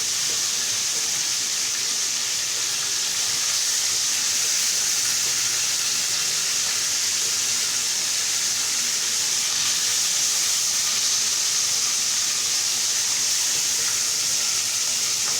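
Hot cooking oil sizzling steadily in a pan, an even high hiss that holds without a break.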